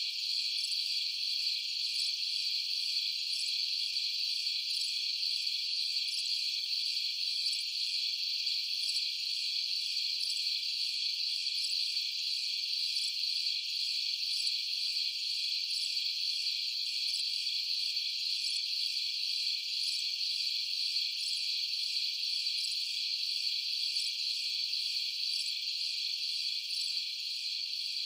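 Night chorus of crickets, a steady high-pitched trilling with no pauses.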